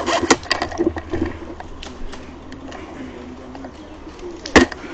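Scattered clicks and rustling from handling the rifle-mounted camera in the first second or so, faint distant voices in the middle, and one sharp crack near the end.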